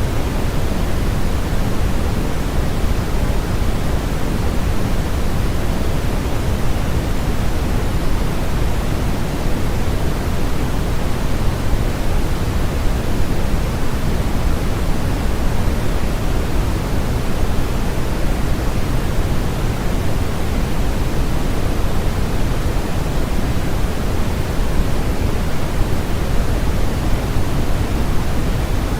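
Steady electronic static noise, a constant even hiss with no changes, its weight lying more in the low end than in the highs.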